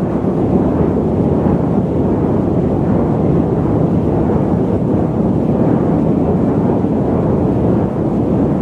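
Loud static noise: an even, unbroken rushing hiss, deep rather than bright, with little treble.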